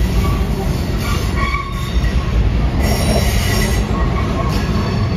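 Train rolling past, a steady heavy rumble of wheels on rails with faint high wheel squeal coming and going.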